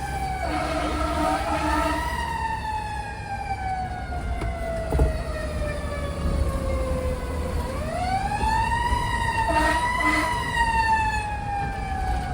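Fire truck siren sounding a slow wail: it rises, falls off slowly over about five seconds, then winds up and falls again, over a steady low rumble.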